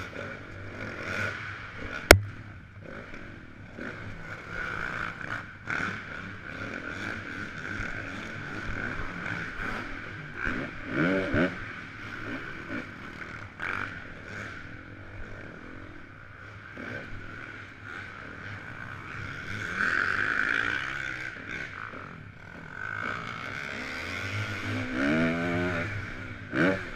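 Motocross dirt bike engines running, with the pitch sweeping up and down twice as a bike revs, once near the middle and again near the end. A single sharp knock stands out about two seconds in.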